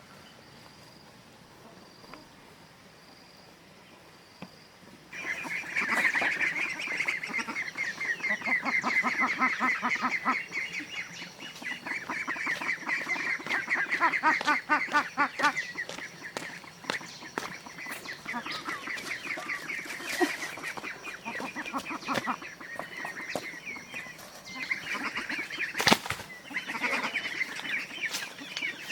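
A flock of domestic fowl calling in a rapid, dense run of calls, starting about five seconds in after a quiet stretch, with one sharp knock near the end.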